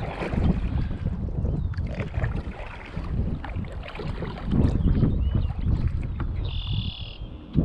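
Water splashing and sloshing around a kayak, with wind buffeting the microphone in a low rumble. A short high-pitched call sounds near the end.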